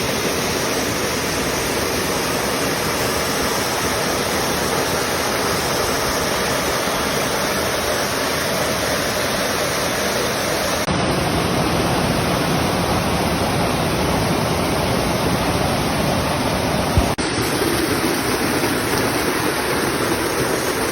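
Waterfall: a steady, loud rush of falling water, shifting abruptly in tone about eleven and seventeen seconds in.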